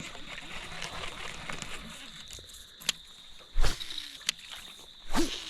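Crickets chirping as a steady high background drone, broken by a few sharp knocks or thumps. The loudest comes about three and a half seconds in.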